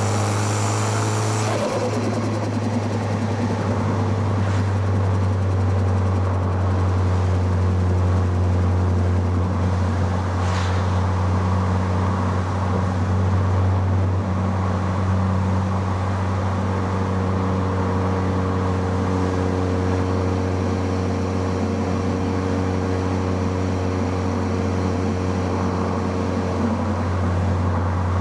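Car engine running under way, recorded close to the intake and exhaust, over tyre and road noise. The engine's pitch falls over the first couple of seconds as the revs drop, then holds at a fairly steady cruising note.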